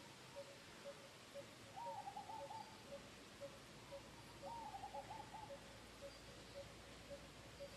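Birds calling in the background: a steady series of short, low notes about two a second, with two brief bursts of quick, wavering higher notes about two seconds and four and a half seconds in.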